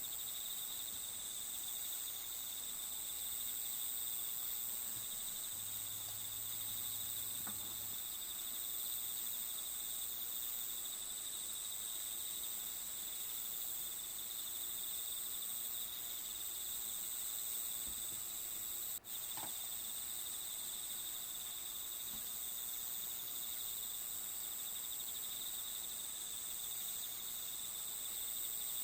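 Steady, continuous chirring of crickets, a nature-sound ambience. It drops out for an instant about two-thirds of the way through.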